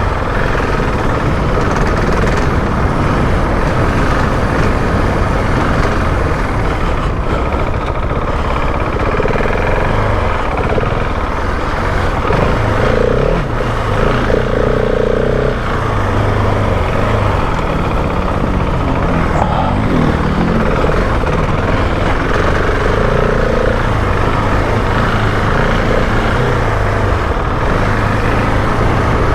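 Husqvarna 701 Enduro's single-cylinder four-stroke engine running under changing throttle as the bike is ridden, its note stepping up and down.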